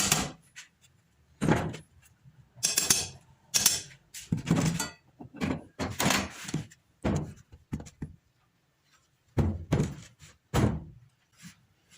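Irregular series of about a dozen short metallic knocks and thunks, with silent gaps between them: steel angle-iron and bar pieces of a welded grill frame being handled, knocked and set down.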